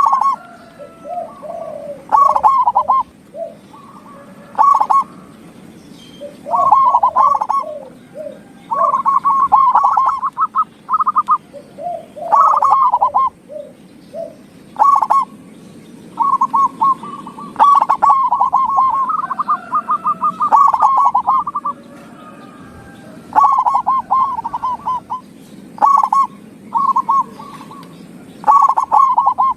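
Zebra doves (perkutut) cooing: phrase after phrase of rapid trilled notes, each about a second long with short gaps between, and a lower call overlapping now and then.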